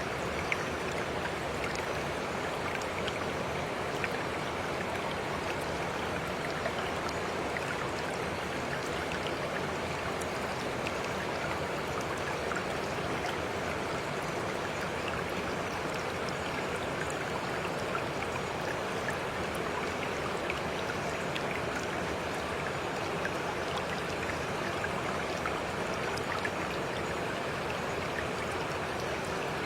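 A stream flowing steadily, an even rush of running water with scattered brief splashy ticks.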